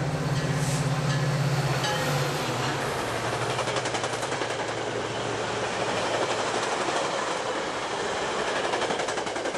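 A train passing close by: the locomotive's engine hum fades after about two and a half seconds, leaving the steady rolling noise of the cars with their wheels clattering over the rails.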